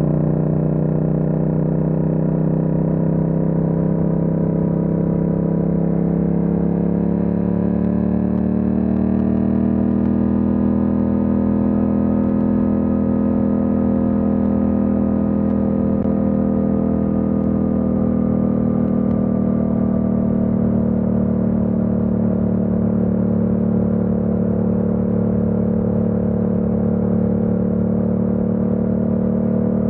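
Yamaha MT-07's parallel-twin engine running under way, its pitch rising over several seconds as the bike accelerates, then holding steady at cruising revs.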